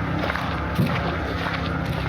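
Footsteps on a park path at a steady walking pace, about two a second, over a constant low hum.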